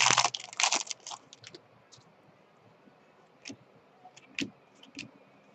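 Trading card packs and cards being handled: a dense rustle in about the first second, then a few soft clicks.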